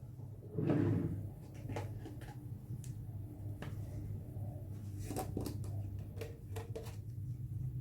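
Shaving soap container being handled and opened: a rustle about a second in, then a scatter of light clicks, taps and rubs from the lid and tub, over a low steady hum.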